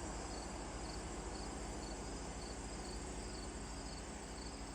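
An insect chirping outdoors: short high chirps repeating at a steady pace over a steady background hiss. No woodpecker pecking stands out.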